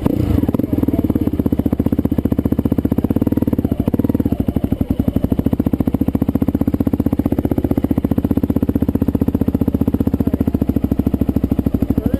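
Motorcycle engine running steadily close by with a fast, even pulse and no revving.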